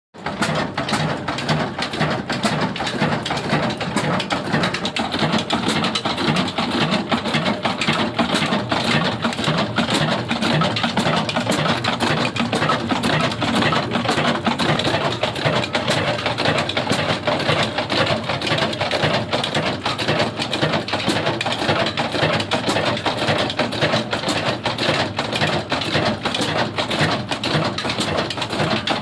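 Old heavy diesel engine running steadily with a fast, even clatter.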